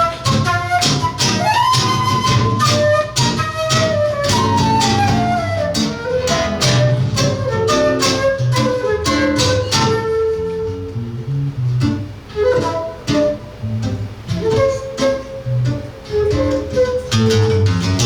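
Live acoustic Latin American style music: a flute plays a melody with sliding lines over plucked guitar chords and low bass notes.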